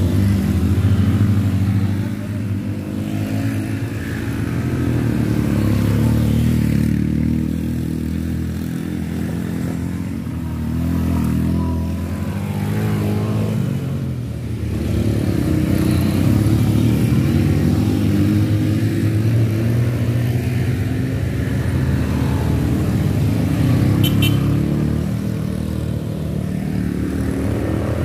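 Motorcycle engine running hard up a steep mountain road, held at high throttle, its revs and loudness rising and falling every few seconds as it climbs.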